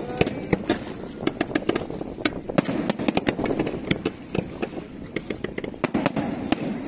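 Fireworks display: aerial shells bursting in quick, irregular succession, several sharp bangs and crackles a second over a continuous rumble of overlapping reports.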